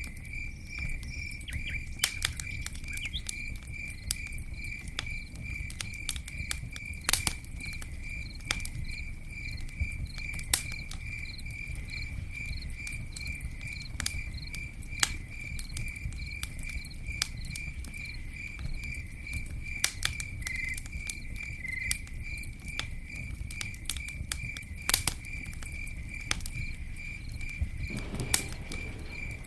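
Campfire burning, with a low steady rumble and irregular sharp crackles and pops from the wood. Behind it a cricket chirps steadily, about two chirps a second.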